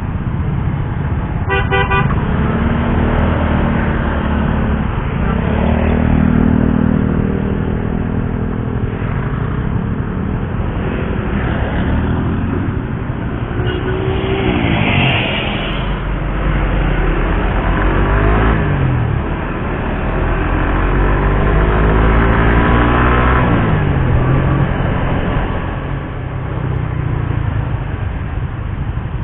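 Suzuki GSX-R150's single-cylinder engine running under way, its pitch climbing and dropping again and again as the bike accelerates and shifts. A horn toots briefly about halfway through.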